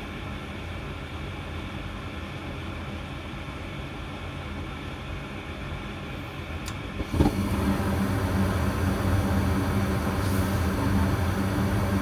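Goodman gas furnace starting up: the draft inducer fan runs steadily, then about seven seconds in there is a sharp click as the burners light, and the furnace runs clearly louder with a steady low hum. With the flame sensor freshly cleaned, the flame stays lit instead of shutting off after a few seconds.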